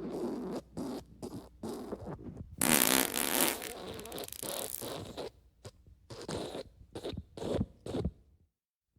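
Fart sound effects in quick succession: a string of short raspy bursts, then a longer, louder one about two and a half seconds in, followed by more short bursts that stop shortly before the end.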